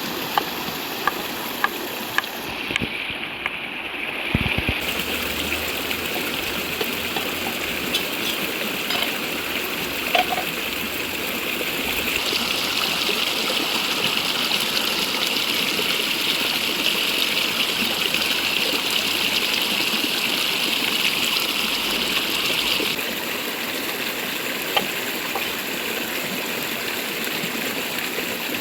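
Steady rushing of a flowing river, with a few sharp clicks or taps scattered through the first half. A brighter, higher hiss comes up about twelve seconds in and drops away about ten seconds later.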